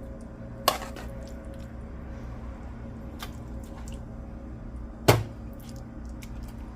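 A serving spoon knocking twice against a pot, about four seconds apart, the second knock louder, with small clicks between as thick pot pie filling is scooped into a pie crust. A steady low hum runs underneath.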